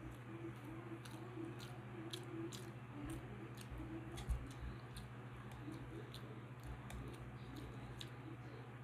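Close-miked chewing of a mouthful of rice eaten by hand, with many short wet mouth clicks and smacks, one louder about four seconds in. A steady low hum runs underneath.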